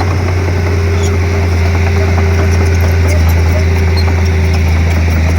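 Komatsu D31P bulldozer's diesel engine running with a steady, loud, low drone.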